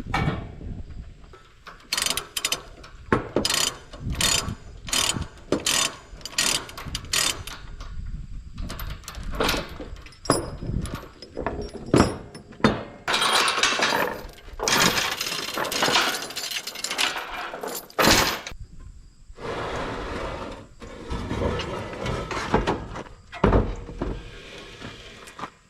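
A ratchet tie-down being worked by hand: a run of sharp clicks about two a second, then longer stretches of rattling, scraping noise.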